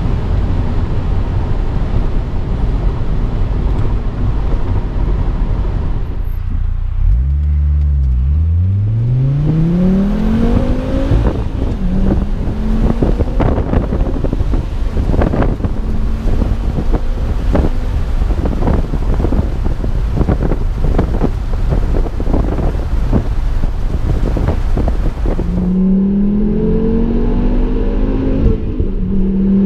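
Volvo V70 R's turbocharged inline five-cylinder engine and exhaust pulling hard, its note climbing in pitch as the revs rise about seven seconds in and again near the end. In between, the run is broken by many irregular sharp pops.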